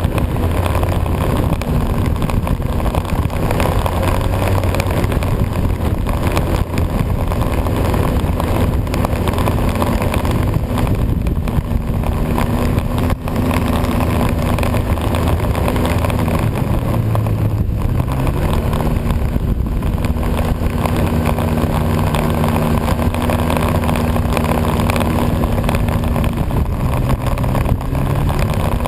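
Snowmobile engine running steadily while under way, with a rush of wind noise. About halfway through, the engine note sinks as it slows, then climbs again as it picks up speed. It rises once more near the end.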